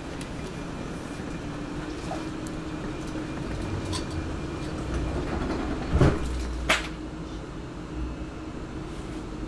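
Inside an electric passenger train running on the line: a steady rumble and hum of the moving carriage, with two sharp knocks under a second apart about six seconds in.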